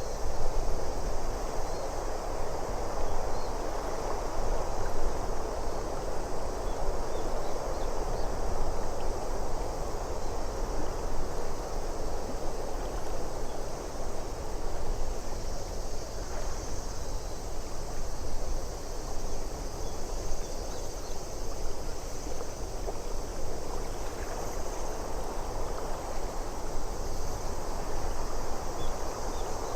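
Steady ambient soundscape of wind and water noise, an even hiss with no distinct events.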